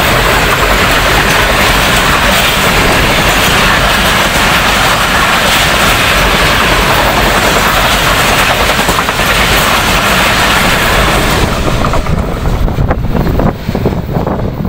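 Passenger coaches of an express train rushing past at speed, a loud steady noise of wheels on rail. About twelve seconds in it falls away sharply and wind buffets the microphone.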